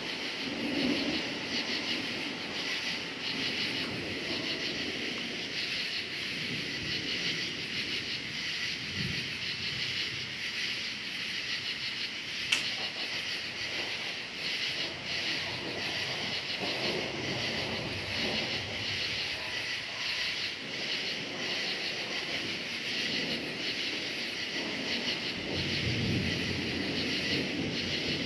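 Crickets chirping in a steady, evenly pulsing chorus, with distant thunder rumbling low underneath, swelling near the start, around the middle and again near the end. A single sharp click about twelve seconds in.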